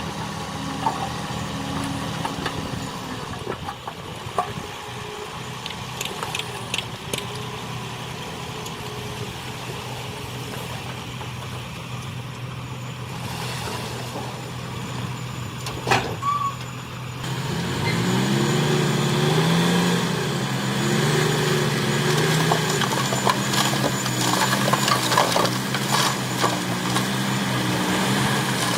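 Diesel engines of heavy earthmoving machinery working. One engine runs steadily at first; about two thirds of the way in, a louder engine comes in, its pitch rising and falling as it works under load, with scattered clanks and knocks.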